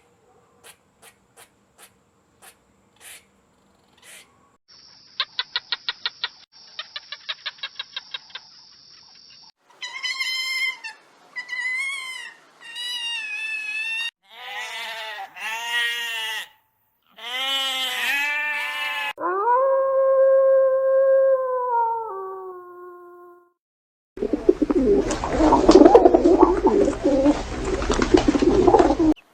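A run of different animal calls, one after another. First come faint clicks and a fast rattling trill, then a series of pitched calls that rise and fall, a long call that drops in pitch, and a loud harsh rough stretch near the end.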